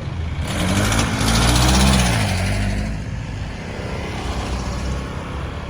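A heavy truck passes close by: its engine and tyre noise swell to a peak about two seconds in, the engine pitch rising and then falling, then fade away into steady traffic noise.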